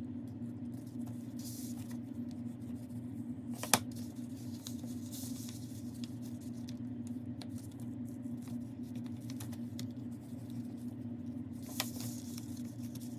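Paper being folded and creased by hand: soft rustling and crinkling, with a sharp tap about four seconds in and another near the end, over a steady low hum.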